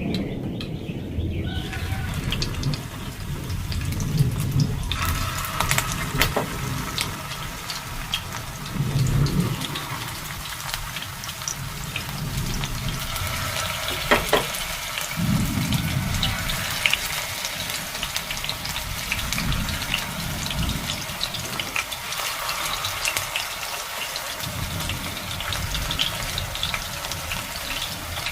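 Water running from a tap into a sink, with scattered small clicks and knocks. Low rumbles come and go every few seconds underneath.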